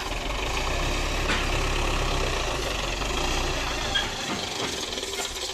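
Tractor engine running steadily, a low drone with no change in speed.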